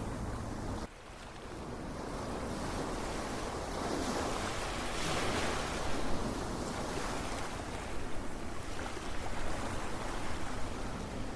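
Ocean waves washing in, a steady rushing surf that swells and eases. About a second in the sound drops away abruptly, then builds back up.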